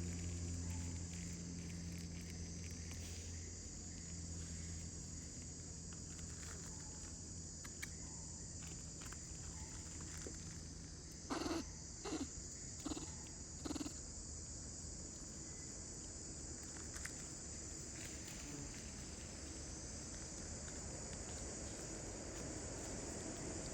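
A monkey giving four short calls in quick succession about halfway through, over a steady low hum and background hiss.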